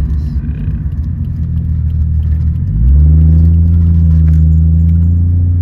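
Toyota Supra engine running while driving, then about two and a half seconds in it rises in pitch and gets louder as the car accelerates, holding steady at the higher revs.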